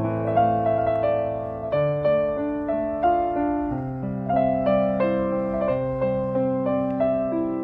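Slow, gentle solo piano music, soft chords and single notes that ring and fade.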